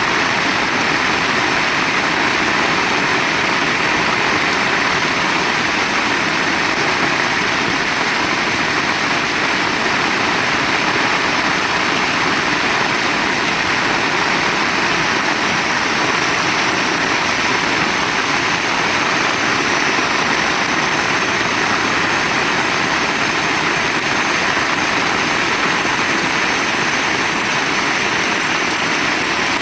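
Heavy rain falling steadily, an even, unbroken hiss with no thunderclaps.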